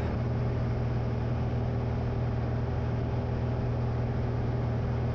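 Steady drone of a light single-engine airplane's piston engine and propeller heard from inside the cabin, with the propeller pulled back to low RPM for a quieter descent in the landing pattern.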